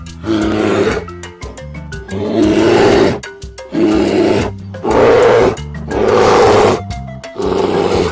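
Bear roaring again and again, about six rough roars each under a second long, over light marimba background music.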